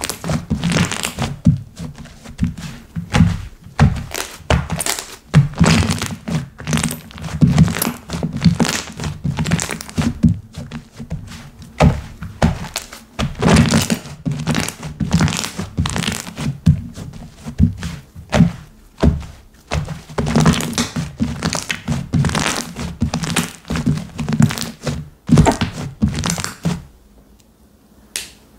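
Slime being pressed, poked and stretched by hand: a fast, irregular run of sticky pops, clicks and thuds that stops about two seconds before the end.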